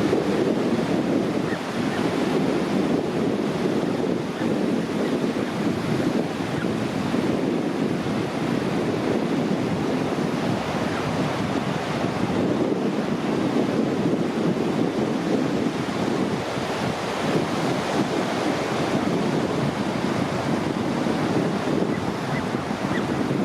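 Steady wash of ocean surf breaking on a beach, with wind rumbling on the microphone.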